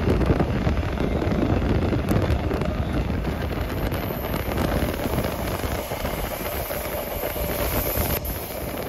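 Couchette car of a locomotive-hauled night train running at speed on rails: a steady rumble of wheels with a rushing noise over it.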